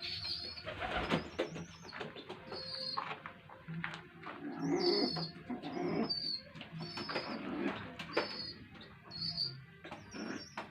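Pigeons at the nest during crop-feeding: a squab's short, high begging squeaks repeated about once a second, with rustling of feathers and wings and sharp clicks as the parent feeds it.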